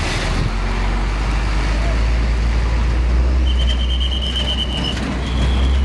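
Heavy vehicle traffic passing on a road, with a deep, steady engine rumble and tyre noise. About three and a half seconds in, a high, thin squeal sounds for about a second and a half, then briefly again near the end.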